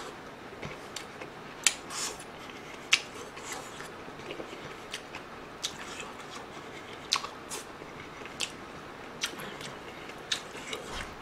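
Close-up chewing and mouth sounds of a person eating army base stew and rice, with scattered sharp clicks throughout, the loudest about two and three seconds in.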